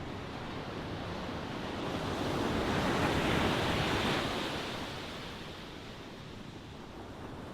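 Ocean waves washing in: a steady hiss of surf that swells to one breaking wave about three seconds in, then ebbs away.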